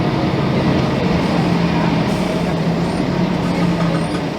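Volvo B10M bus's diesel engine running at a steady speed, with an even low hum.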